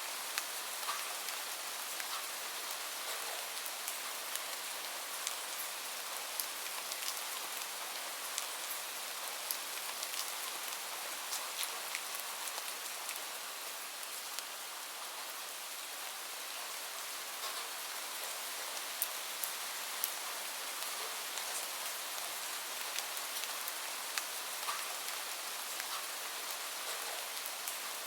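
Steady rain hiss mixed with scattered, irregular sharp pops and clicks, as from a crackling wood fire.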